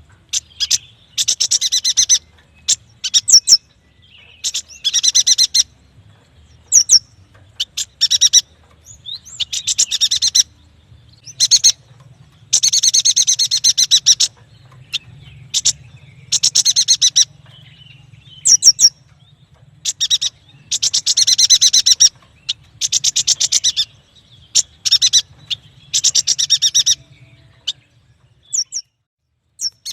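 Yuhina singing: phrases of rapid chattering notes, each a second or two long, come one after another with short gaps, and single high sharp notes fall between some of them.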